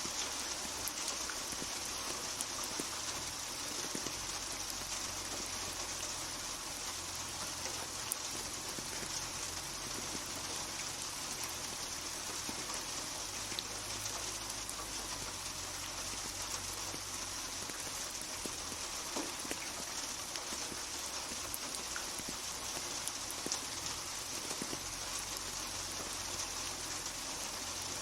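Steady rain falling, with a constant hiss and scattered small drop impacts on hard surfaces.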